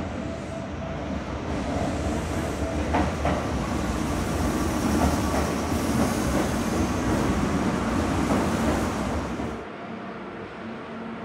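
Kintetsu Aoniyoshi express train pulling into an underground station platform: a reverberant rumble of wheels and running gear with occasional clacks, growing louder as the cars pass. It falls away suddenly as the train stops near the end, leaving a steady low hum.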